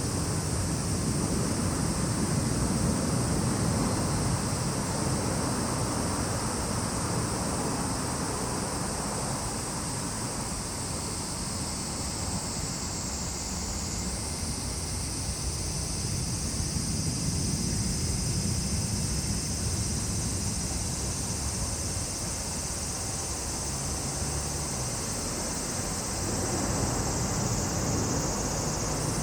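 Cicadas singing a steady high sizzle that sags in pitch and snaps back up twice, about halfway through and near the end, over a low steady rumble.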